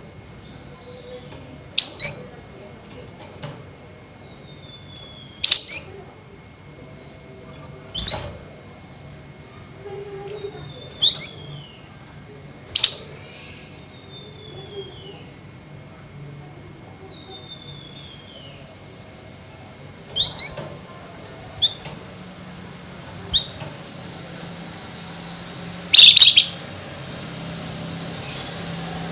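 Flamboyan songbird calling: sharp, loud chip notes every one to three seconds, with fainter thin downslurred whistles between them.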